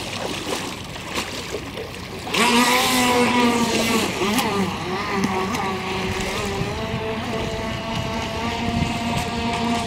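Traxxas Blast RC speedboat's stock brushed electric motor, on a 2-cell LiPo, starting up sharply about two seconds in. It then runs at speed with a steady, slightly wavering whine.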